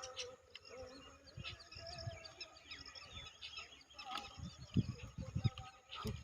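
Small birds chirping faintly with many short high calls, with several low thumps a little past the middle.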